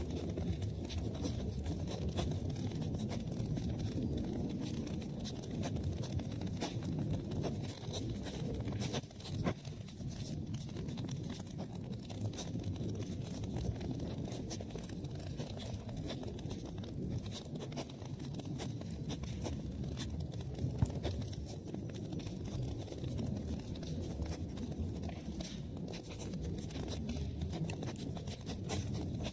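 Wood fire burning in a fireplace: a steady low rumble of flames with constant crackling and small pops, one sharper pop about two-thirds of the way through.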